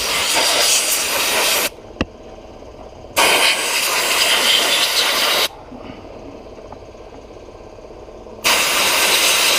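Glass bead blast gun firing in three bursts of about two seconds each: a loud hiss of compressed air and glass bead media striking a heavily oxidized KZ400 motorcycle engine and stripping the oxidation off. A single short click comes about two seconds in, between the first two bursts.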